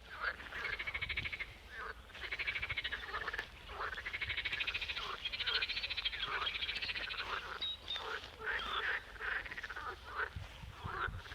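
Chorus of frogs calling in rapid, finely pulsed trills, several voices overlapping, each trill lasting a second or so.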